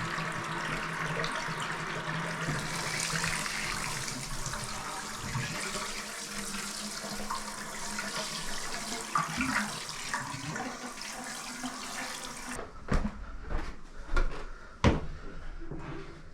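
Tap water running steadily, shut off abruptly about twelve and a half seconds in, followed by a few knocks and clicks.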